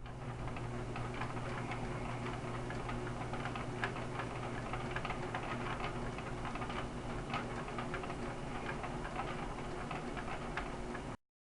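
A steady low engine hum with a dense run of irregular clicking and rattling ticks over it, cut off abruptly near the end.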